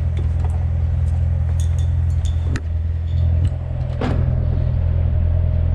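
Car engine running steadily with a low rumble, with a couple of short clicks over it.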